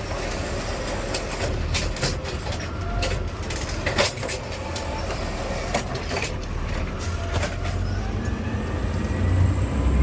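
Garbage truck's diesel engine running steadily while its automated arm works a cart, with scattered clanks and knocks from the cart and the lift, and a faint rising hydraulic whine near the end.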